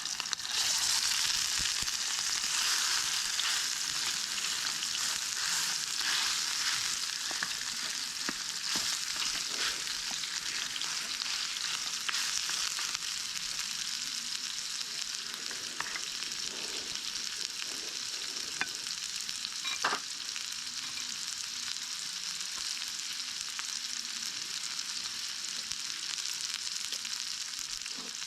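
Food frying in a hot pan: a steady sizzling hiss with crackles and a few sharp clicks, strongest about two-thirds of the way through.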